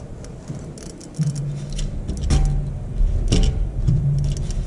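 Metal parts clinking as a fuel pump assembly is handled and fitted, with two sharp clinks about a second apart over a low hum that comes and goes.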